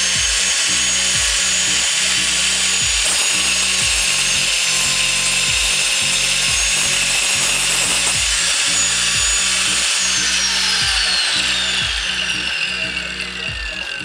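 Ossel GT091 angle grinder with a 4-inch wood-cutting blade running at full speed and sawing through a wooden board, a steady high whine with the rasp of the cut. About ten seconds in the motor is switched off and its whine falls away as the blade spins down.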